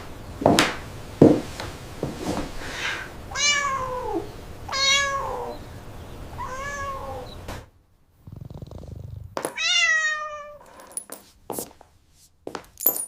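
A cat meowing: three short meows that fall in pitch, then a longer meow about ten seconds in. A couple of sharp knocks near the start are the loudest sounds.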